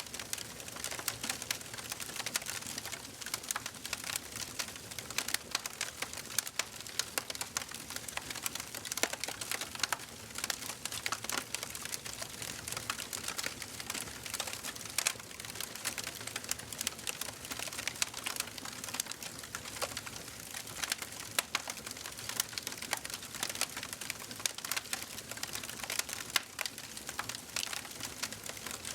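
Wood fire burning in a fireplace, crackling and popping continually with dense, irregular small snaps over a soft hiss.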